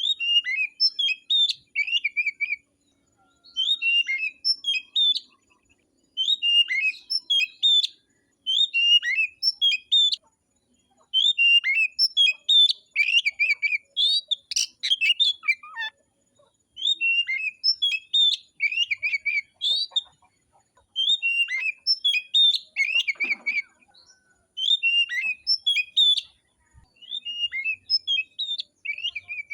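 Oriental magpie-robin (kacer) singing in full fighting-style song: rapid, varied whistled phrases of one to two seconds each, separated by short pauses.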